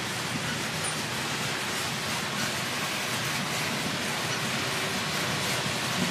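Freight train of open hopper cars rolling past: a steady rushing noise of steel wheels on rail.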